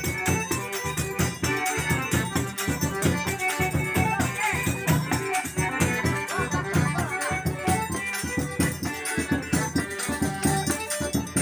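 Forró music with a zabumba bass drum beating a fast, steady rhythm under other instruments and high percussion.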